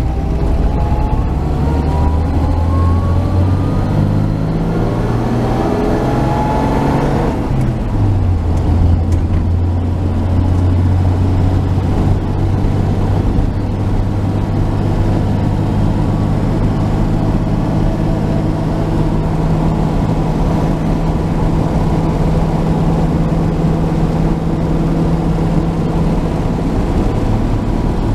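1949 Chevy truck's straight-six engine pulling under way, rising in pitch for about seven seconds, then dropping as it changes up a gear and settling into a steady cruising drone.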